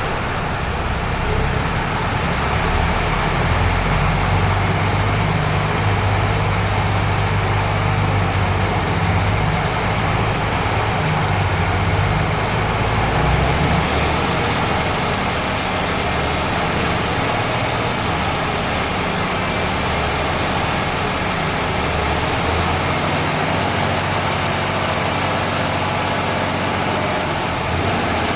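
MAN TGS 26.500 lorry's 12.4-litre straight-six diesel idling steadily just after starting. Its low note shifts about halfway through, and a faint high whistle runs for several seconds in the middle.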